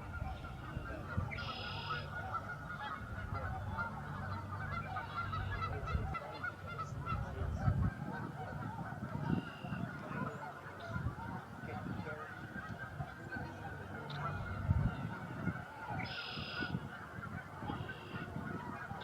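A huge flock of wild geese calling all at once: a dense, unbroken wall of honking from thousands of birds, with a few louder single calls standing out about a second and a half in and again near the end.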